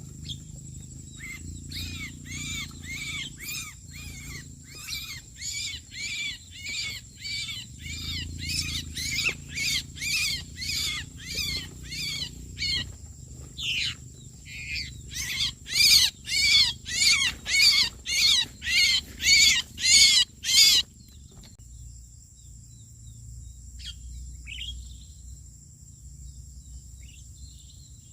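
A harsh bird call repeated steadily, about twice a second, growing louder about halfway through and then stopping abruptly. After it come a few faint chirps, over a steady high insect whine.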